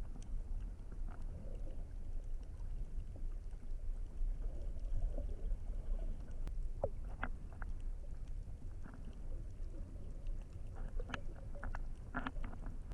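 Muffled low rumble and water movement picked up by a GoPro in its waterproof housing while snorkeling, with scattered small clicks and pops, thickest near the end.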